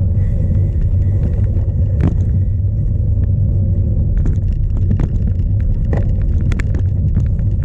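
Onboard rumble from a cyclocross bike ridden hard over rough ground, with strong wind buffeting the camera microphone. Sharp knocks and rattles come through several times as the bike hits bumps.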